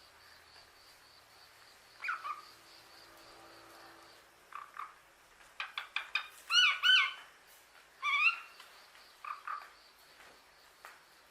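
A parrot making a scattered series of short chirps, clicks and whistled calls. The loudest are two looping whistles about six and a half seconds in and another about a second later. A faint, rapid, high pulsing chirp runs underneath.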